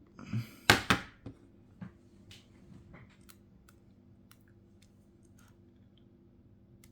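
Sharp clicks and clatter of small repair tools handled against the phone and work surface, loudest in a quick cluster about a second in, then sparse light taps and ticks.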